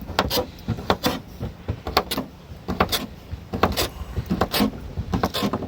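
Knife cutting sausages into pieces: a run of sharp, irregular knocks, about three a second.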